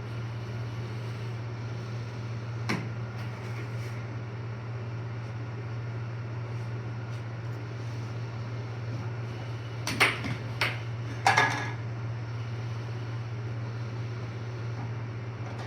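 Air hockey table's blower humming steadily, with a single sharp clack about three seconds in and a quick run of three louder clacks around ten to eleven seconds in: the puck being struck and knocking against the table.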